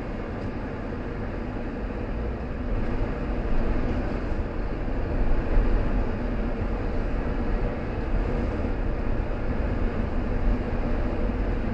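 Car driving along a road: steady tyre and engine noise with a low rumble and a faint hum, rising a little a few seconds in.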